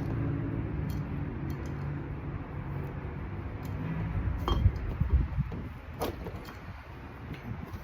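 A few sharp metallic clinks, as of tools or small engine parts being handled and set down, over a steady low rumble. The loudest clinks come in the middle and a little after.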